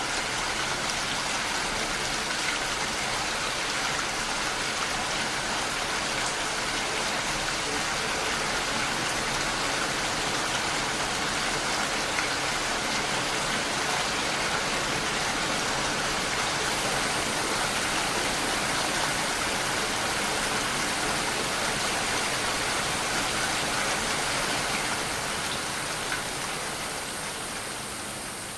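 Steady rainfall: an even, continuous wash of rain noise that eases off a little near the end.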